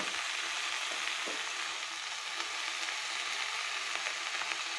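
Freshly washed amaranth leaves sizzling in hot oil in a metal kadai, the water on the leaves hissing steadily as they are stirred and turned with a slotted metal ladle.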